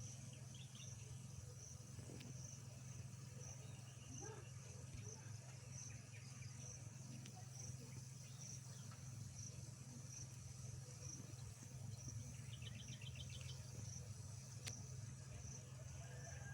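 Faint forest ambience: a high-pitched insect chirp repeating steadily, about once every three-quarters of a second, over a low steady hum. A short rapid trill comes about three-quarters of the way through.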